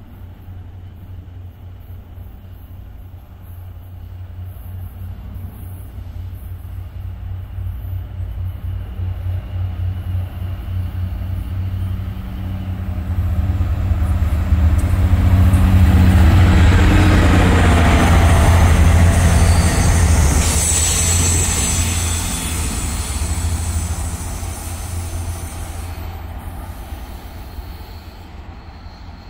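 A train passing: a low rumble of wheels on rail builds to its loudest about halfway through, then fades away. A high-pitched squeal comes in briefly just after the loudest point.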